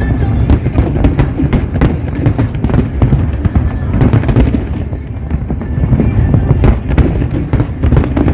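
Aerial fireworks bursting in a rapid, continuous barrage: many overlapping sharp bangs and crackles over a deep rumble.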